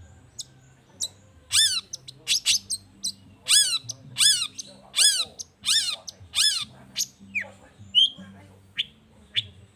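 Long-tailed shrike (cendet) calling: a run of loud, repeated calls about every 0.7 seconds, then shorter sharp notes near the end.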